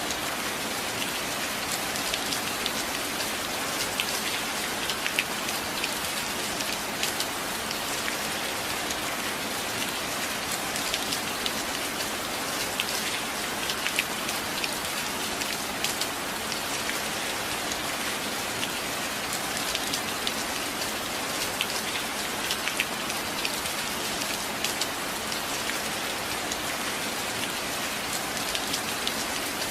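Steady rain, with many close drops ticking sharply throughout.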